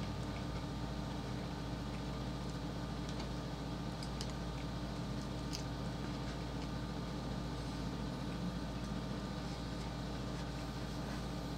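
Steady low hum and hiss of background noise, with a few faint crackles as crispy fried chicken is torn apart by fingers.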